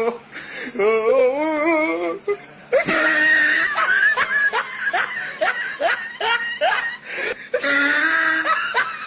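Person laughing hard in long runs of short rising bursts, after a drawn-out wavering call about a second in.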